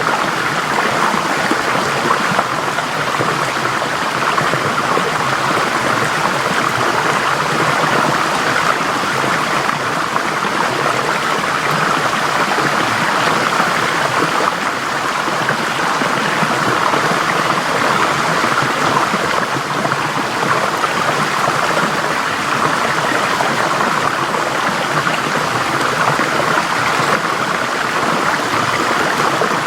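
Forest stream flowing: a steady rush and babble of water over stones, even throughout.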